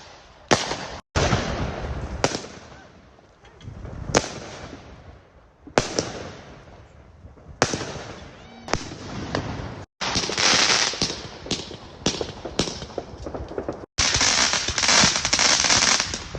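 Fireworks going off: a series of sharp bangs, each trailing off into a fading rumble, with stretches of dense crackling later on.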